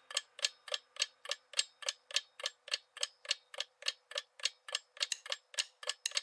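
Clock-tick sound effect of a countdown timer, even sharp ticks about four a second.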